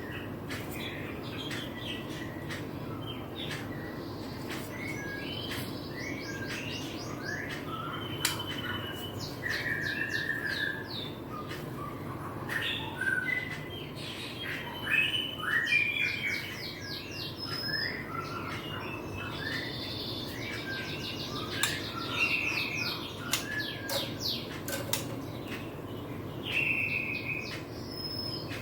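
Juvenile white-rumped shama (murai batu), about 25 days old, singing a varied, broken song of short chirps, whistled notes and rapid trills. Sharp ticks are scattered through it, over a steady low background hum.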